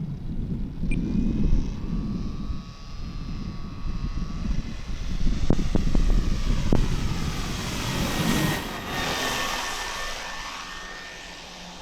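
The brushless electric motor and propeller of an E-flite Air Tractor 1.5m RC plane running at idle power give a light whine. The whine swells as the plane passes by about two-thirds of the way through, then fades as it flies off. Wind rumble on the microphone comes early on.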